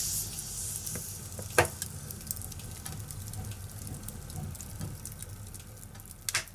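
Wood fire crackling in a fireplace: a steady hiss with frequent small pops, and sharper snaps about a second and a half in and twice near the end.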